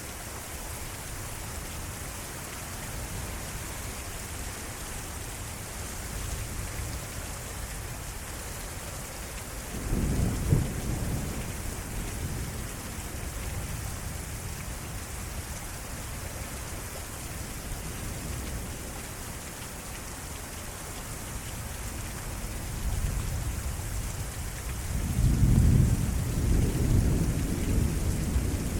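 Heavy thunderstorm rain falling steadily. Thunder breaks in with a sudden low rumble about ten seconds in, and a second, longer rumble builds and rolls near the end.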